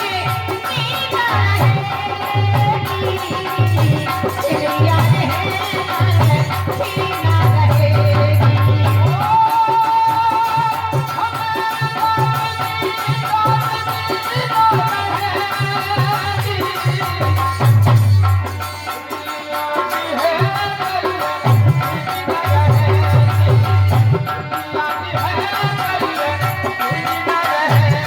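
Indian folk music: a sustained melody played over a steady, repeating hand-drum beat.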